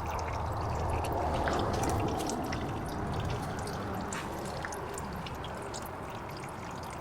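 Used engine oil draining from a Dodge Durango's oil pan into a drain pan: a steady pour with scattered fine drip ticks.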